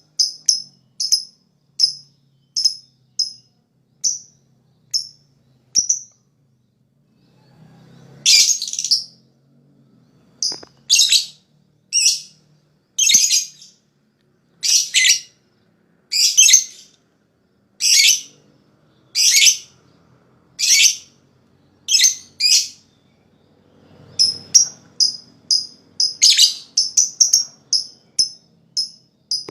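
Lovebird calling: short sharp chirps about two a second that slow and stop, then after a pause a run of longer, harsh chattering calls about every second and a half, and quick chirps again near the end.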